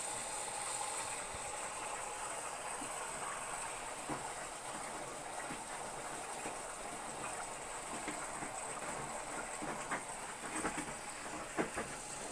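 Whirlpool front-load washing machine running, with a steady rush of water and scattered clicks and knocks that come more often near the end. A faint high whine fades out in the first couple of seconds.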